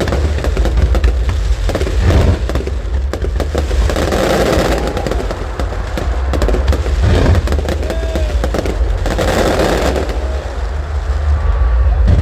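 Fireworks display: a dense, rapid run of bangs and crackles over a continuous low rumble.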